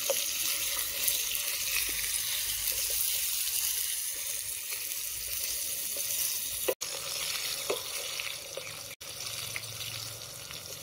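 Potato pieces frying in hot oil in a metal wok, a steady sizzle, with a few light clicks of a metal spatula stirring them. The sound drops out for an instant twice in the second half.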